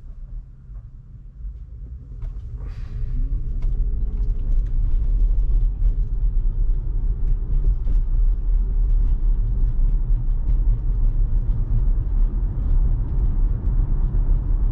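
Road and tyre rumble heard inside an electric Tesla's cabin, quiet at first and building about two to four seconds in as the car pulls away and picks up speed, then holding steady.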